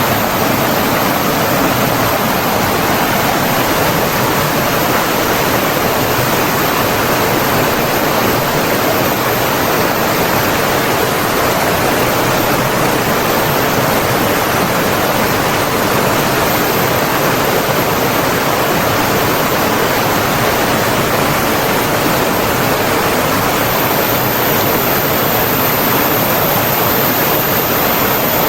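Flowing water of a stream or waterfall, a steady, even rush without breaks.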